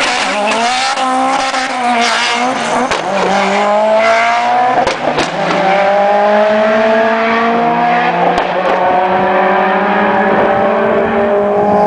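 Modified performance car engines at a drag strip, more than one running at once. They rev up and down at first, then hold a steady run while their pitch climbs slowly.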